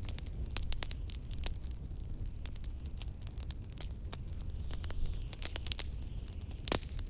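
Wood fire crackling with irregular sharp pops, one louder pop near the end, over a steady low rumble of blizzard wind.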